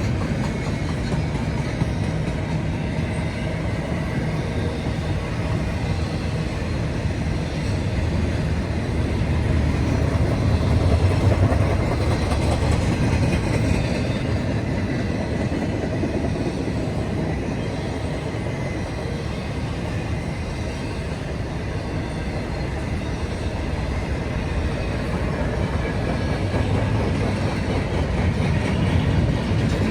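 Freight train cars of an intermodal train rolling past, with a steady rumble and clatter of wheels on the rails that swells a little about a third of the way in and again near the end.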